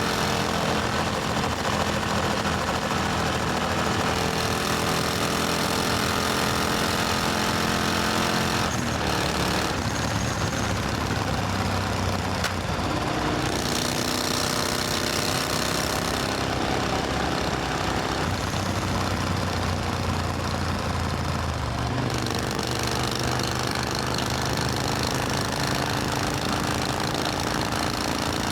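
Supercharged Triumph Thunderbird Storm's parallel-twin engine running steadily, its pitch dropping about nine seconds in and shifting again a little after twenty seconds.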